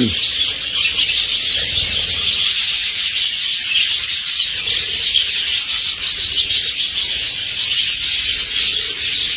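A large flock of budgerigars chattering and chirping together: a dense, continuous high twittering.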